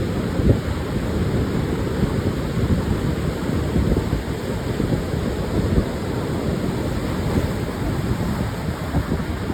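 Pacific surf washing onto a sandy beach, a steady low rush of waves, with wind buffeting the microphone in small irregular thumps.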